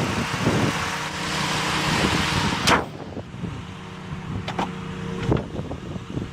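The Galant's 3.8-litre V6 running at idle with the hood open, then a single loud slam a little under halfway in as the hood is shut. After it the engine is much more muffled, and a few sharp clicks follow.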